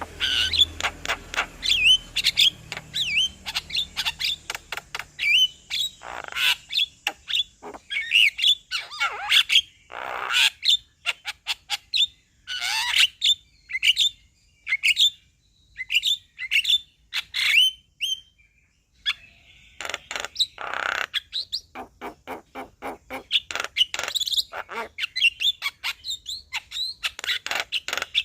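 Male Javan myna singing: a rapid, continuous run of short, sharp chirps and sliding whistled notes, broken by several longer, harsh, raspy squawks.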